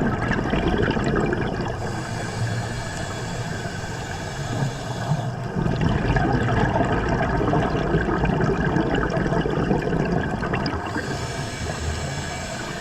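A scuba diver breathing through a regulator underwater: long stretches of gurgling exhaust bubbles alternate with a brighter hiss, twice in a slow, even rhythm.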